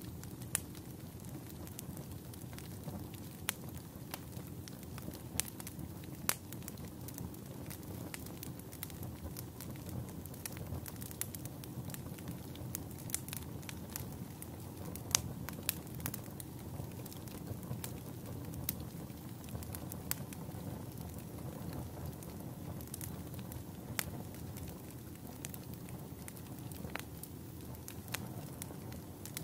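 Campfire burning: a steady low rush of flames with irregular sharp crackles and pops of burning wood, a few of them louder.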